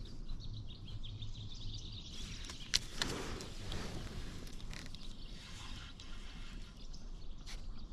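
Quiet outdoor ambience with faint bird chirps and a single light click a little under three seconds in.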